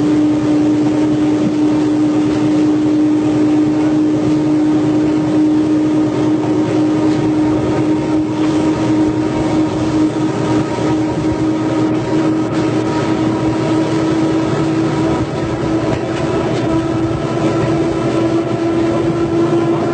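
Diesel passenger train running, its engine giving a steady drone with a strong humming tone that rises slightly in pitch near the end.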